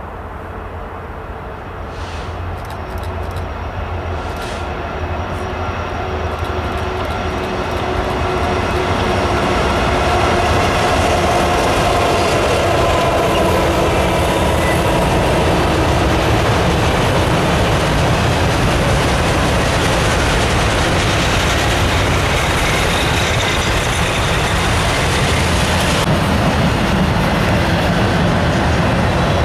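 Freight train led by two EMD SD80MAC diesel locomotives with 20-cylinder engines approaching and passing. It grows louder over the first ten seconds, then stays loud and steady.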